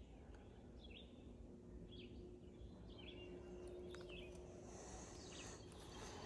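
Faint outdoor quiet with a bird repeating a short chirp about once a second over a low steady background noise. Near the end there is a light hiss and a few soft ticks of handling noise.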